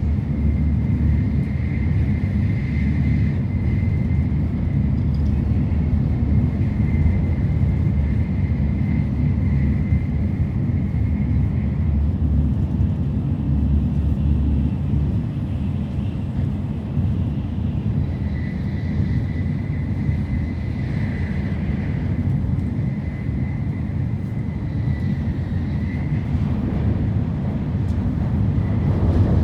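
Shinkansen bullet train running at speed, heard from inside the passenger cabin: a steady low rumble with a thin high whine that fades out for a while in the middle and comes back.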